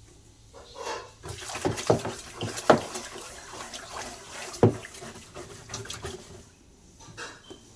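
Water running and splashing, with several sharp knocks and clatters of things being handled in it; it dies away about six and a half seconds in.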